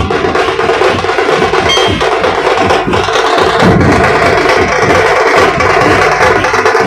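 Dhol-tasha troupe drumming, big barrel dhols with tasha drums, in a fast, dense, unbroken rhythm.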